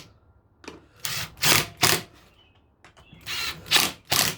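Power drill driving screws in short bursts: three quick bursts, a pause, then three more.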